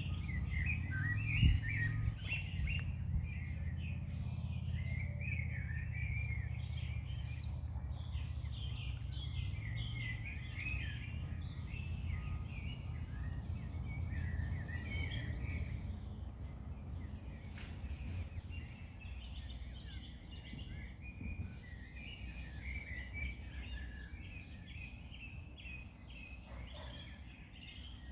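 Several songbirds chirping and singing continuously over a low rumble that eases off about halfway through, with one brief low thump about a second and a half in.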